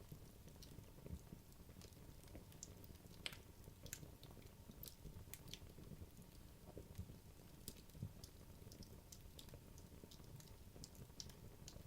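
Wood logs burning in a fireplace: faint, irregular sharp crackles and small pops, several a second, over a low, steady murmur of the fire.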